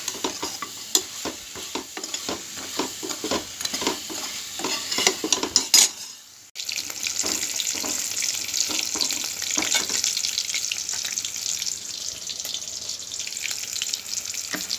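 Hands mixing raw chicken pieces in a wet spice paste, with irregular squelching and clicking. Then, after a sudden break about six and a half seconds in, chicken pieces deep-frying in hot oil, giving a steady sizzle.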